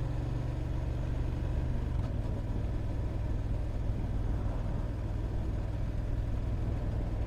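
Motorcycle engine running, heard from the bike itself, with a steady low engine note that changes pitch about two seconds in.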